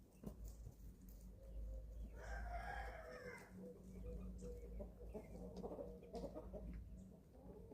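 Young chickens, about eleven weeks old, calling while feeding: one longer call about two seconds in, then a few shorter clucks and chirps.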